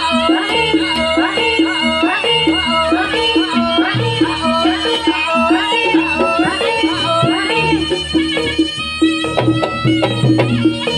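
Live traditional Javanese music accompanying the pegon dance: a reedy wind melody in bending, ornamented phrases over a steady low note and drums, with a run of sharp drum strokes near the end.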